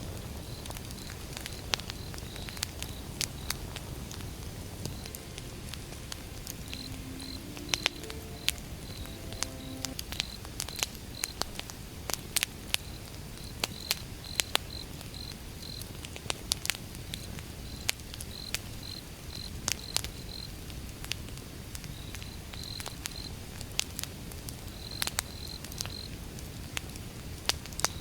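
Wood fire crackling with frequent sharp pops over a steady low rush of flames, while a cricket chirps in quick, regular pulses in the background.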